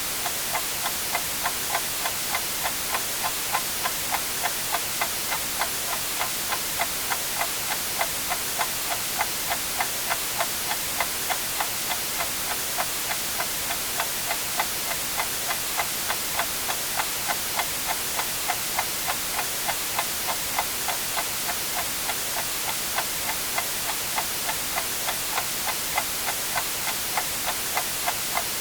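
Clock ticking steadily, about two ticks a second, over a constant hiss of white noise.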